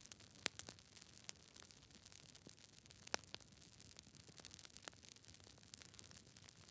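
Campfire crackling: irregular sharp pops and snaps over a soft hiss, the loudest pops about half a second and three seconds in.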